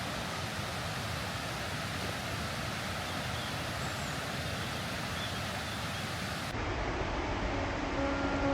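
Steady outdoor rushing noise with no clear single source. About two-thirds of the way through it cuts to a different, quieter background, and acoustic guitar music begins near the end.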